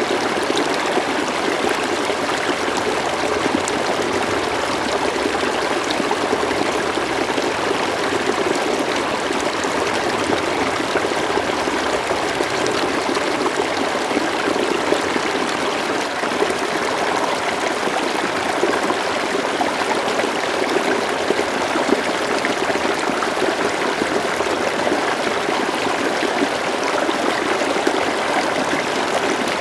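River water flowing and trickling over stones, a steady rushing with fine babbling detail.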